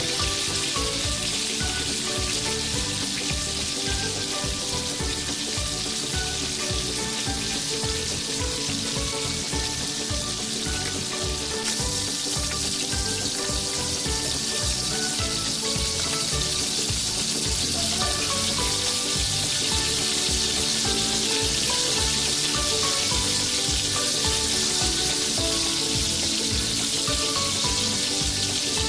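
Lentil pakoras frying in hot oil in a tiny pan, a steady sizzle throughout, with background music underneath.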